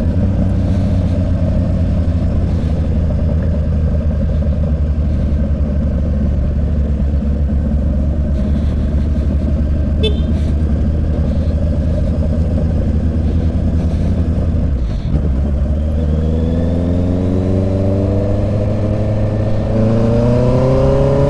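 Honda CB650 inline-four motorcycle engine and exhaust running steadily at cruising speed. About fifteen seconds in the throttle eases briefly, then the engine revs up with a rising pitch, shifting gear once near the end and climbing again.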